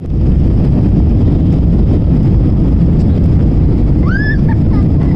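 Airplane taking off: a loud, steady low rumble of engines and runway roll. A brief rising voice cuts in about four seconds in.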